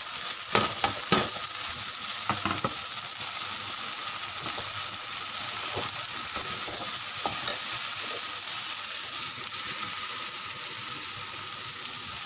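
Ground spice paste with red chilli powder, salt and turmeric sizzling in hot oil in a metal kadhai: the masala being fried (bhuna) for a curry. It is stirred with a metal slotted spoon that scrapes and knocks against the pan several times in the first few seconds, then now and then.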